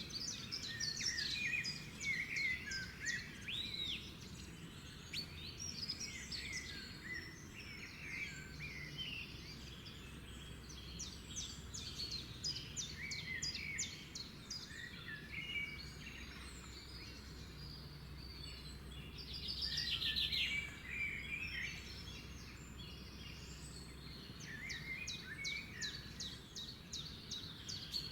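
A chorus of several songbirds chirping and singing, with fast trills near the start, about two-thirds of the way in and near the end, over a faint low steady hum.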